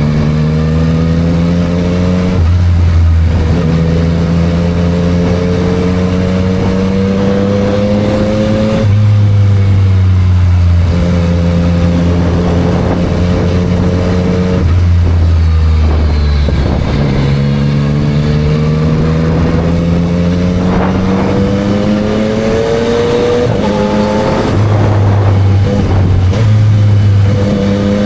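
Yamaha MT-09 SP's three-cylinder engine through a Spark full exhaust, running under way. The pitch climbs steadily and then drops sharply several times as the bike accelerates and shifts gears.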